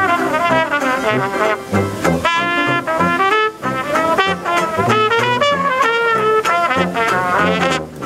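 Live traditional jazz band playing with trumpet and trombone leading over a reed, banjo and sousaphone, the sousaphone keeping steady bass notes about twice a second.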